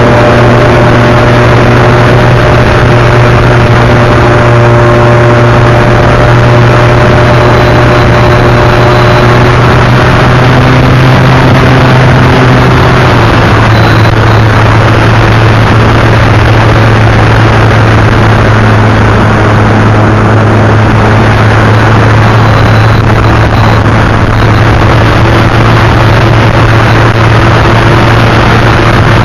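RC model airplane's motor running loud and steady close to the microphone, with a slight drop in pitch about 13 seconds in.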